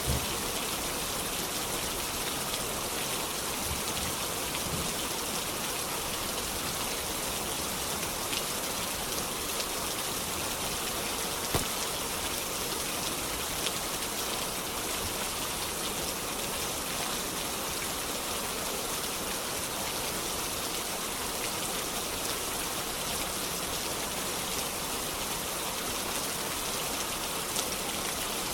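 Steady rain falling as a constant, dense hiss, with a few sharp clicks scattered through it.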